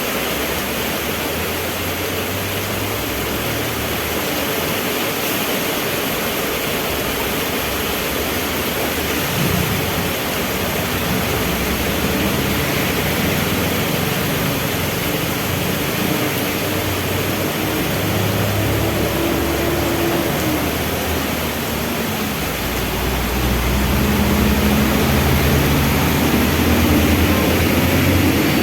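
Heavy rain falling steadily, with the low hum of vehicle engines in traffic under it; the engine rumble grows louder in the last few seconds.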